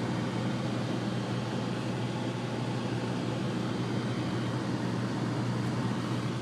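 Steady car-cabin noise while driving: engine and road noise with a constant low drone.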